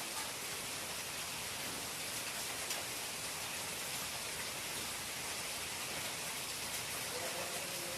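Steady hiss of falling water, an even rain-like patter with no distinct splashes.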